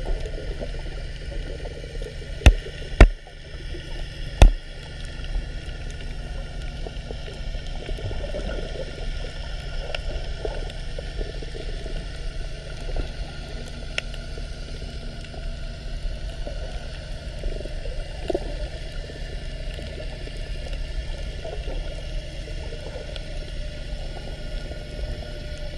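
Aquarium water gurgling over a steady low pump hum, with three sharp knocks in the first five seconds.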